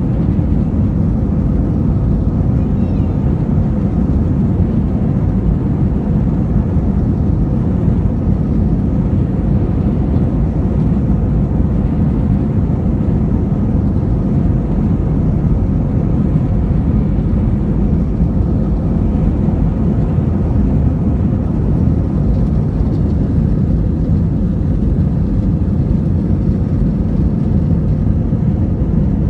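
Steady low rumble of a passenger airliner in flight, heard from inside the cabin, unchanging throughout.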